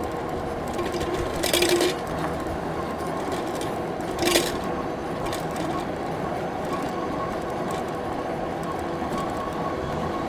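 Cyrusher Ranger e-bike being ridden: a steady motor whine over tyre and road noise, with a short rattle twice in the first few seconds, the metal coffee mug knocking against the bike frame rather than anything loose on the bike.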